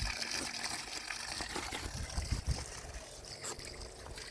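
Spring water trickling and flowing steadily, with a few dull low thumps about halfway through.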